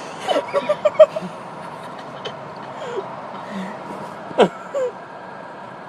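Stifled laughter from people inside a car: a quick run of snickers about a second in, then one sharp burst later, over the steady hum of the car.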